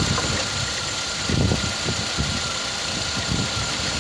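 Nissan car engine idling steadily.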